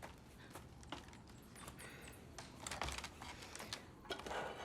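Faint, scattered clicks and rustles of quiet movement, with a cluster of soft knocks about halfway through and another near the end.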